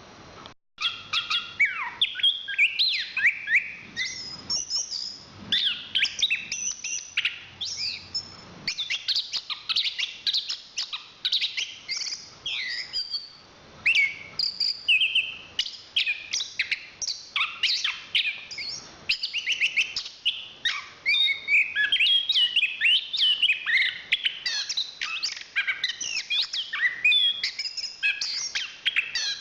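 Chestnut-capped thrush singing a fast, continuous, varied song of quick whistles, slurred notes and trills, after a brief break just under a second in.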